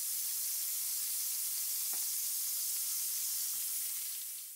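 Onion paste frying in hot oil with cumin seeds and bay leaves: a steady high sizzle that fades out near the end.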